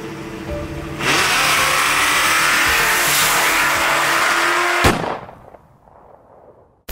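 Cars under hard acceleration at full throttle: a loud burst of engine and exhaust noise starts suddenly about a second in, holds for about four seconds and then cuts off at a sharp crack.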